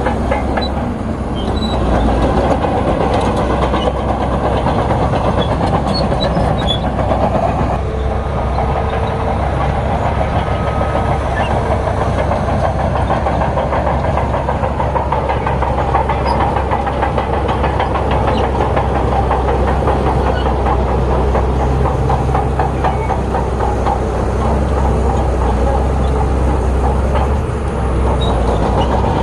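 Bulldozer working: its heavy diesel engine runs steadily while the steel crawler tracks clatter continuously. The sound changes character about eight seconds in.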